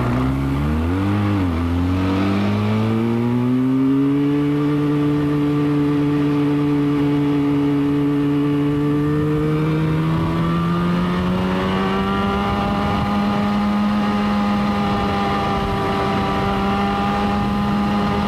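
Motorcycle engine pulling up a hill, its pitch wavering and climbing in the first few seconds as it accelerates, then holding steady under load with a slight further rise about ten seconds in.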